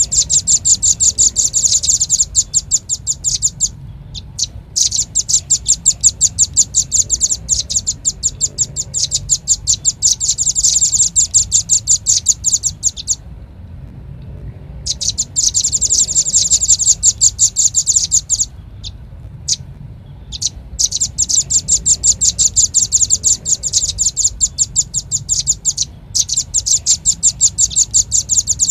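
Velvet-fronted nuthatch calling: rapid runs of sharp, high chips, many a second, in long trilling bursts of several seconds with short pauses between them. It is a bird-lure recording.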